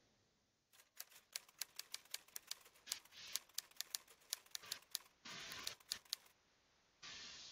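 Typewriter keys clacking in a quick, irregular run as text is typed out, with two short hissing sweeps near the end.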